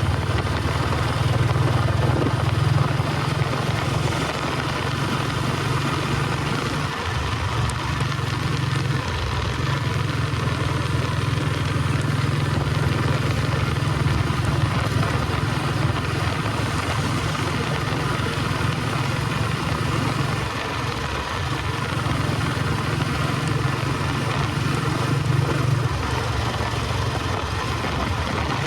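Royal Enfield Bullet 350 Electra's cast-iron single-cylinder engine running under way, recorded from the moving motorcycle, with a steady thump, wind and road hiss over it. Its note drops briefly a few times, around a quarter of the way in and again past the middle.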